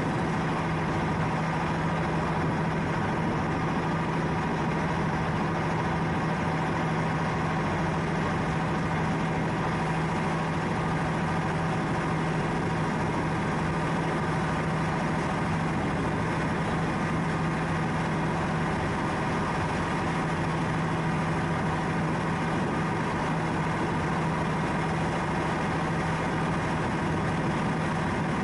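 A ship's engine running steadily, a constant low hum with a few fixed higher tones over a hiss of machinery and water.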